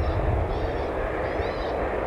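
Steady aircraft engine noise with heavy low wind rumble. Faint, short high chirps repeat a little more than once a second over it.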